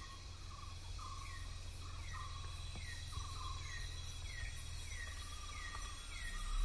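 Forest ambience: a bird calls over and over, a short falling note about every 0.8 seconds with a lower note near it, over a steady high insect drone and a low rumble.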